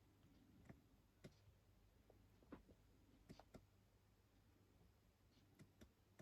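Near silence, with a few faint, short clicks and taps scattered through it, from light handling of the enclosure and tools.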